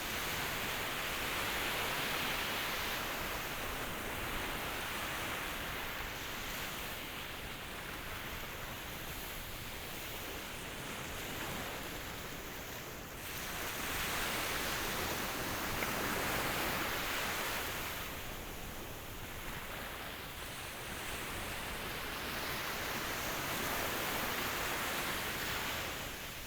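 Ocean waves washing ashore in a steady rush of surf, swelling three times: near the start, about halfway through, and near the end.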